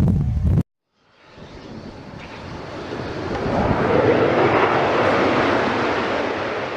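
A brief low rumble cuts off abruptly, then a jet airliner's engine noise swells over a few seconds, peaks and begins to ease as the aircraft passes near the runway.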